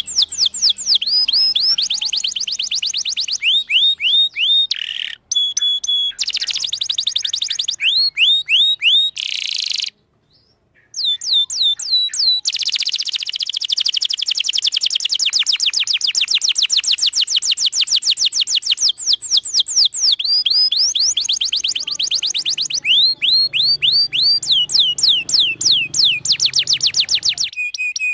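Domestic canary singing a long, continuous song of fast trills, each roll made of quickly repeated high rising chirps, with a pause of about a second partway through.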